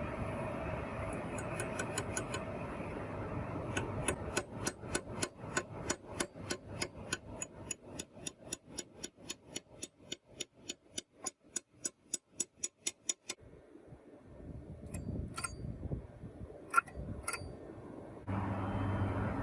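A regular series of sharp clicks, about three a second, over a low hum, stopping about 13 seconds in; a few scattered clicks follow, then a louder steady machine hum starts near the end.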